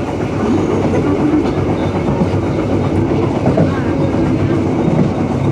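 Dhoho passenger train running on the rails, heard from inside the carriage: a steady rumble of wheels and carriage with faint voices under it.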